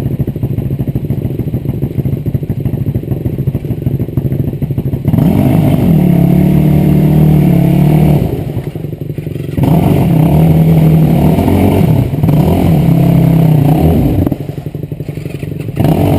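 Enduro motorcycle engine running at a low, steady speed, then revved hard about five seconds in and held at high revs, easing off briefly twice and revving up again each time.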